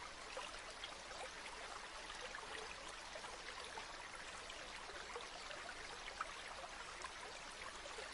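Gently flowing river water: a steady faint rush full of small splashes and droplet ticks, with no music.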